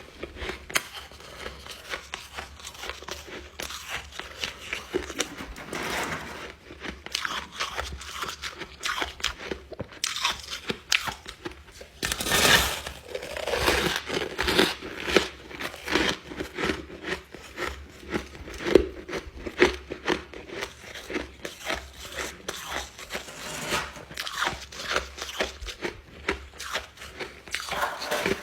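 Close-miked crunching of ice being bitten and chewed: irregular sharp cracks and crunches one after another, with a loudest burst of crunching a little before halfway through.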